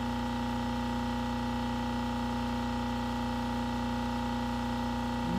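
A steady machine hum with several constant tones, unchanging throughout, and no distinct clicks or knocks.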